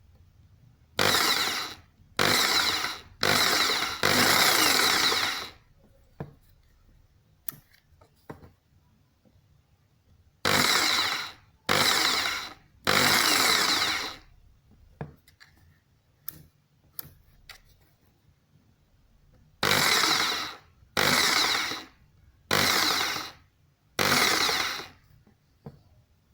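Bosch GST 700 500-watt jigsaw run in eleven short bursts of about one to one and a half seconds each, each one cutting off and winding down. The bursts come in three groups of four, three and four, with faint handling clicks between the groups.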